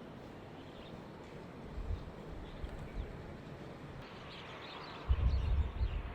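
Faint open-air ambience with a few faint bird chirps. About five seconds in, low irregular gusts of wind start buffeting the microphone.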